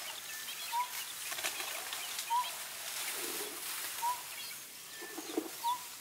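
A bird repeats a short whistled note about every second and a half over fainter chirping. Under it are a few soft rustles and snaps from an elephant browsing in the bush.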